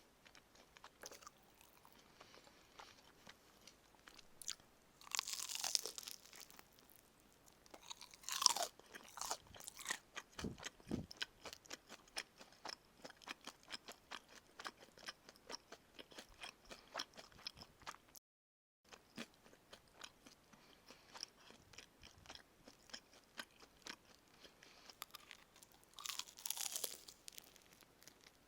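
Close-up chewing of crispy karaage fried chicken: a steady run of crunching and smacking, with three louder crunches from bites into the crisp coating. The sound cuts out briefly about two-thirds of the way through.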